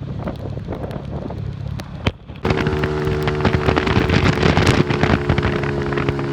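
Engine of a 150 cc cafe racer motorcycle running steadily, with wind buffeting the microphone and crackling over it. The sound drops away for a moment about two seconds in, then returns louder with a fuller engine note.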